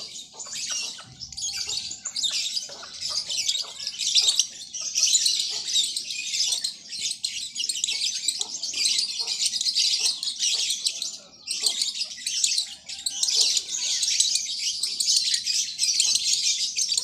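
Lovebird singing in long, fast, high chattering phrases with only brief breaks, one of them about two-thirds of the way in.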